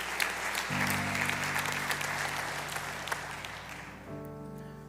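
Congregation applauding over soft, sustained background chords; the applause fades out near the end, leaving the held chords.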